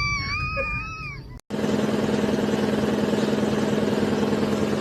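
A wavering high-pitched whine that wobbles up and down in pitch, fading out over the first second and a half and cut off abruptly; then a vehicle engine running steadily with a constant low hum.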